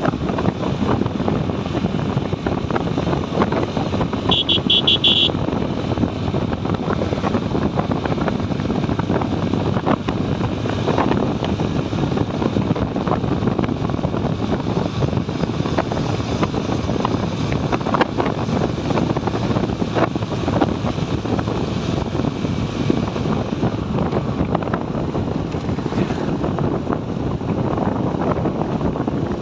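Motorcycle running steadily on the move, with wind noise on the phone's microphone. A brief run of high-pitched beeps about four seconds in.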